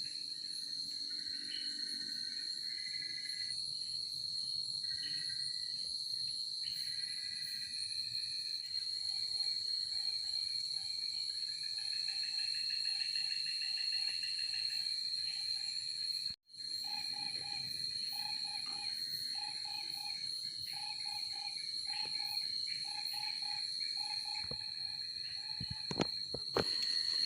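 Night forest insect chorus: crickets keep up a steady high trill, while another caller repeats short chirps about twice a second. The sound cuts out for an instant about halfway through, and there are a few clicks near the end.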